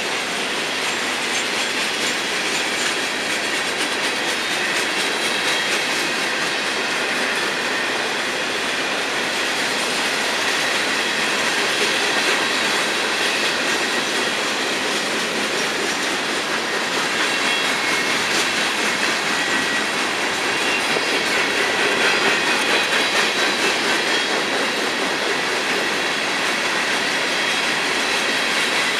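Long freight train of open hopper cars rolling by, steel wheels clacking over the rail joints in a steady, continuous run.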